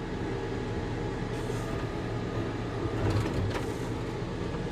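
Volvo skid steer's diesel engine running steadily while the machine backs up with its bucket in float mode to level dirt. Brief rasping noises come about a second and a half in and again around three seconds in.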